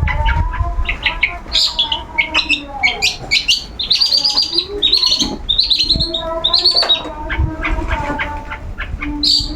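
Long-tailed shrike (cendet) singing without pause: a busy run of short, high chirping notes, several a second.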